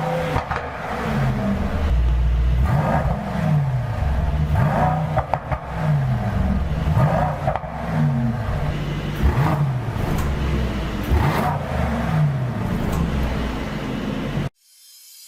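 Mercedes-AMG E63 S's 4.0-litre twin-turbo V8 revved again and again, its pitch rising and falling roughly every two seconds. It cuts off suddenly near the end.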